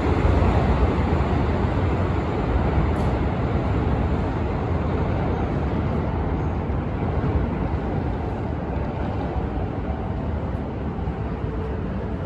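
KiHa 183 series diesel express train leaving, its diesel engines and running gear making a dense rumble that slowly fades as it pulls away.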